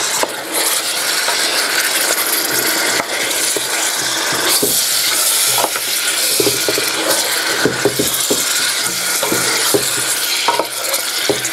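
Chicken pieces, chopped tomatoes and green chillies sizzling in hot oil in a steel pot, stirred with a wooden spoon, with scattered knocks of the spoon against the pot.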